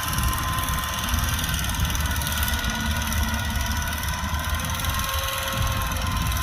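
Kubota tractor engine running steadily under plowing load, a dense low rumble with a thin steady whine over it.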